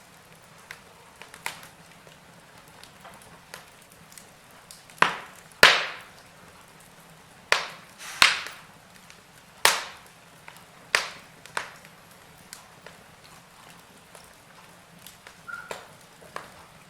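Wood fire in a fireplace crackling, with sharp irregular pops over a faint hiss; the loudest pops come in a cluster about five to six seconds in, then several more every second or so.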